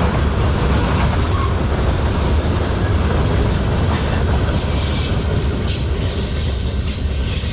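Manifest freight train rolling past: a steady, loud rumble and clatter of wheels on the rails. In the second half come several short high-pitched screeches.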